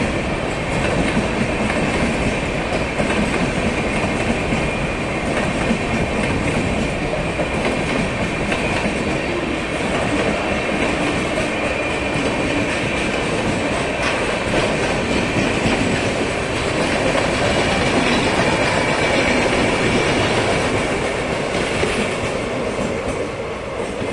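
Paschim Express passenger train running on the rails: a steady, loud wheel-on-track rumble with a faint high whine above it.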